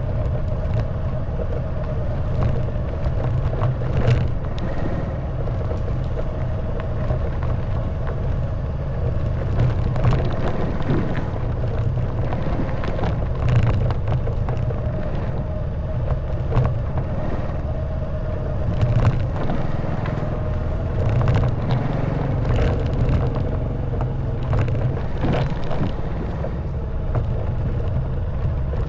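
Honda Wave 110cc single-cylinder four-stroke motorcycle engine running steadily at low speed, with frequent knocks and rattles as the bike rides over a rough stone road.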